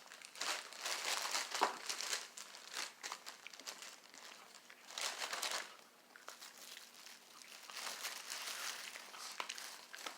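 Crinkling and rustling in irregular bursts with small sharp clicks, like paper or wipes being handled.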